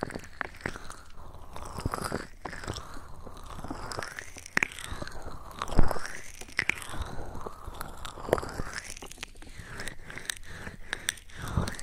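Close-up ASMR sounds on an ear-shaped microphone: irregular crisp clicks and taps with swooping, swishing sweeps as hands move over the mic ears, and one louder thump a little before halfway.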